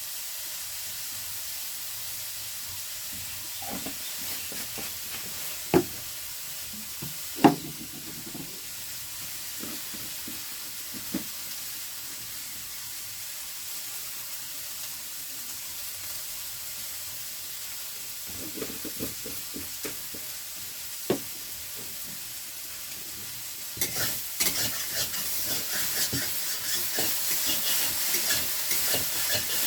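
Potatoes frying in oil in a pan, sizzling steadily, with a few sharp knocks of a utensil against the pan. Near the end the sizzling turns louder and crackles.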